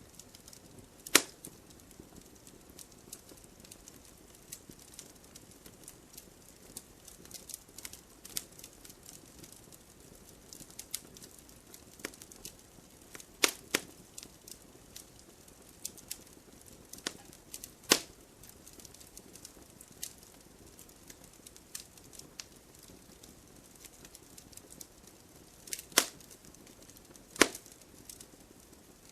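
Burning firewood crackling: irregular sharp snaps over a low hiss, with a handful of loud pops as the wood splits in the heat.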